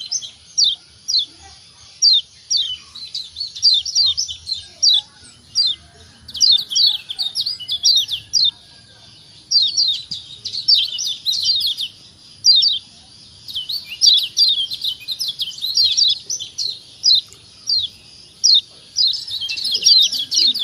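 Kecial kuning (yellow white-eye) giving its 'ciak ciak' calls: quick runs of short, high, downward-sweeping chirps, several a second, in clusters separated by brief pauses.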